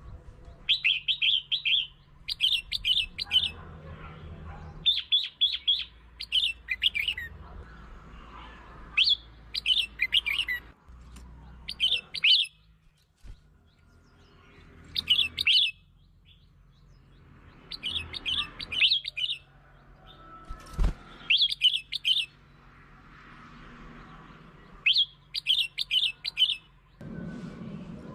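Red-whiskered bulbul singing: short, bright, warbling phrases about a second long, repeated again and again with pauses between them, over a faint low hum.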